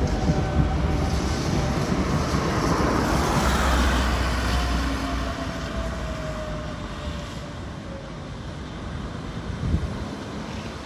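Gothenburg tram passing by: a rumbling rush that builds to its loudest about four seconds in and then dies away, with a faint whine falling in pitch as it goes.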